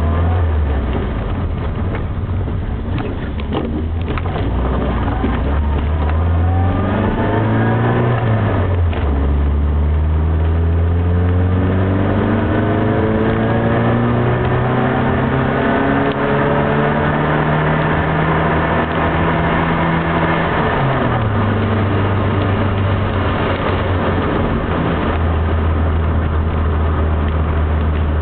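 Classic Mini's A-series four-cylinder engine heard from inside the cabin, pulling up a hill road. The revs climb about six seconds in and dip just after eight seconds, then climb slowly for about ten seconds before dropping about twenty-one seconds in and holding steadier.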